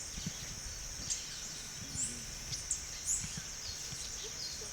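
Tropical forest ambience: a steady high-pitched insect drone, with short, sharp bird chirps repeated every second or so.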